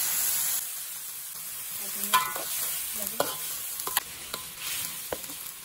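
Freshly added blended spice paste sizzling in hot oil in a metal wok; the hiss dies down about half a second in. Then a metal spatula scrapes and knocks against the wok a few times as the paste is stirred.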